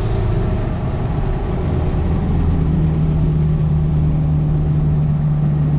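2017 Ford F250's 6.7-litre Power Stroke turbodiesel running under boost through a 5-inch Flo-Pro straight-pipe exhaust, heard from inside the cab with the windows down, mixed with road and wind noise. A steady low drone, with a steady low tone settling in about two and a half seconds in.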